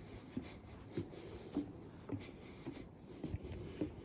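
Footsteps on a wooden boardwalk, dull knocks about twice a second at a steady walking pace.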